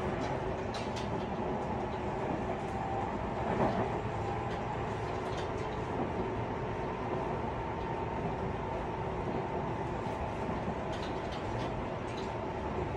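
Tobu 50090 series electric train heard from inside a motor car while running between stations: a steady rumble of wheels and motors with faint steady tones. Small clicks and rattles come and go, with a slightly louder bump about three and a half seconds in.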